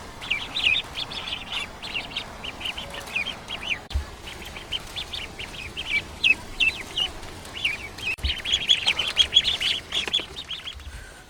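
Birds chirping: a rapid run of short, high chirps from several birds, busiest and loudest near the end.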